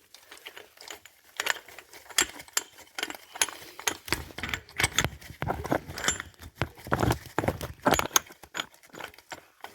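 Metal parts of an axle installer tool clinking and clicking as its threaded piece is screwed on by hand, with irregular light knocks throughout.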